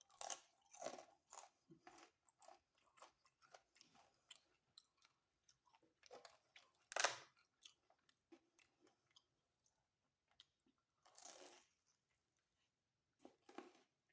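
Close-up chewing and biting of pizza with a crusty crust: irregular soft crunches and wet mouth clicks. The loudest crunch comes about seven seconds in.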